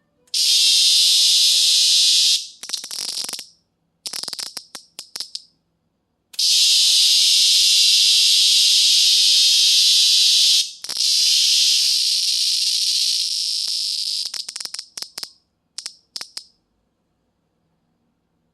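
Cicada buzzing loudly in long bursts of a few seconds each, broken by quick stuttering pulses. It winds down into short pulses and stops a couple of seconds before the end.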